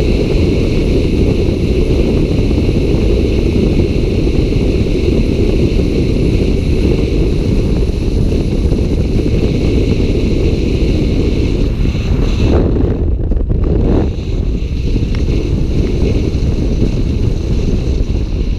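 Steady, loud low rumble of wind buffeting the microphone, with a brief dip about twelve seconds in.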